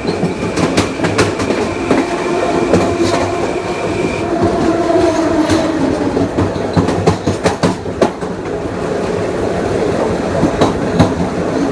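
Kawasaki M9 electric multiple unit's IGBT-VVVF inverter and AC traction motors whining under steady running noise. A high steady tone cuts off about four seconds in, and lower tones shift in pitch. Sharp clicks of the wheels over rail joints run throughout.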